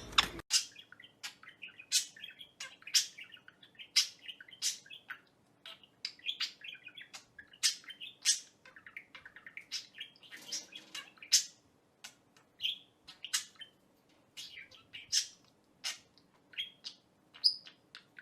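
Pet parrot chirping: a long run of short, high, sharp chirps at irregular intervals, with soft chattering between them.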